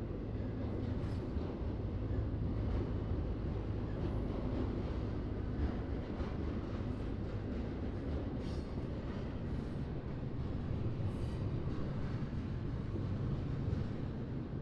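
Freight train rolling past, a steady low rumble of cars on the rails, with a few faint, brief high-pitched wheel squeals.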